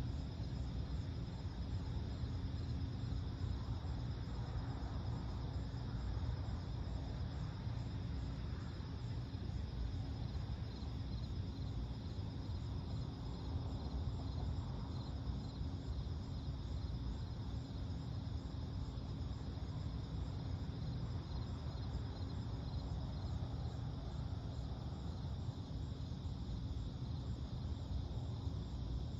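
Steady chorus of night insects chirping faintly, over a steady low rumble.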